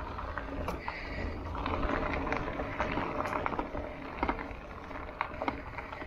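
Bicycle rolling along a dirt trail, its frame and parts rattling and clicking over bumps and roots, with wind rumbling on the microphone.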